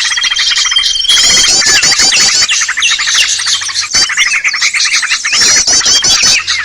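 A dense, loud chorus of many small songbirds chirping and trilling at once, with rapid runs of repeated high notes and short whistles overlapping throughout. It is a bird-lure (pikat) recording made to draw in small wild birds.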